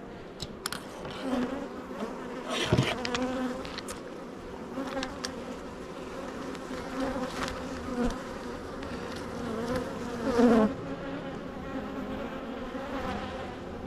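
Honeybees buzzing around an open hive: a steady hum with single bees swelling louder as they fly close past, loudest about ten seconds in. A few light clicks come through over the buzz.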